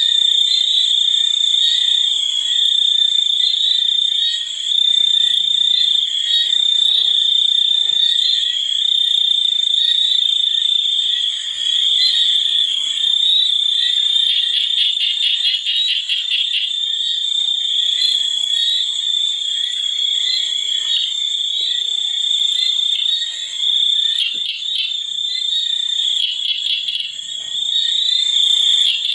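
Nature-sound chorus: a steady, unbroken high-pitched insect trill, with patches of faster pulsed calls from other callers around the middle and again near the end.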